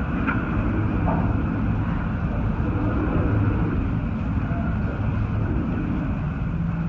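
Hurricane-force wind blowing, with a steady low rumble of gusts buffeting the microphone.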